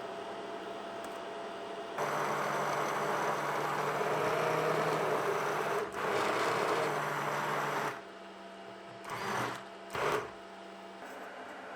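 A small electric motor runs steadily for about six seconds, cuts out, then is pulsed on twice briefly.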